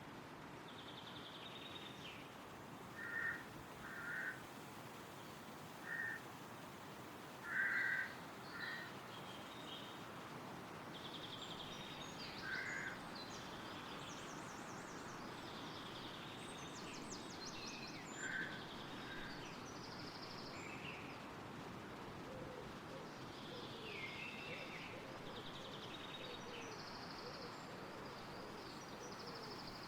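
Woodland ambience: wind rustling steadily through trees while songbirds sing high, twittering phrases throughout. A bird gives about seven short, loud calls, clustered in the first half, which are the loudest sounds.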